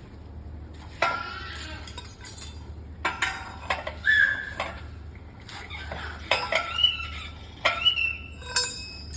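Metal tools and engine parts clinking and clanking together, a string of about eight sharp knocks with short metallic ringing, over a low steady hum.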